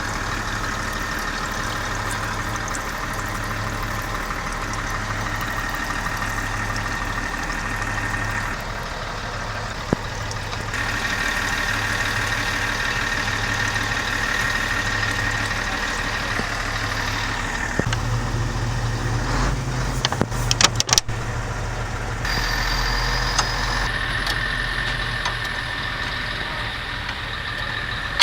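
An engine running steadily at idle, with a cluster of sharp metallic knocks a little over two-thirds of the way through.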